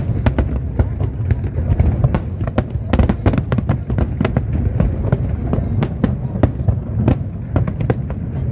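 Fireworks display: a dense, continuous barrage of sharp bangs, several a second, over a low rumble.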